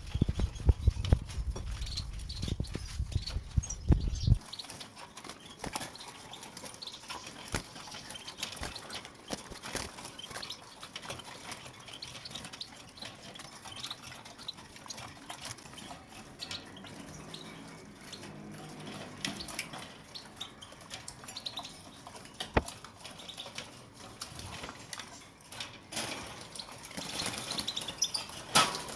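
European goldfinches with faint short high calls over many small clicks and taps. A low rumble runs under the first four seconds and then stops suddenly.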